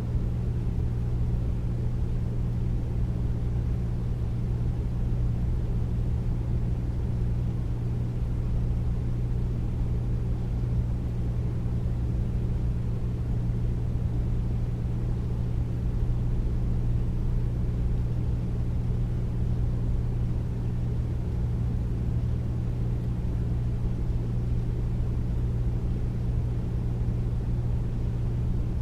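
Air conditioner running steadily: a deep, even hum with a rumbling rush of air underneath and no change throughout.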